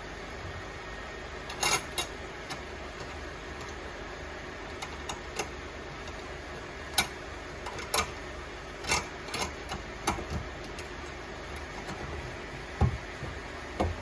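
Scattered short clicks and knocks of tools and fittings being handled during washbasin faucet and drain-trap fitting work, over a steady low hum.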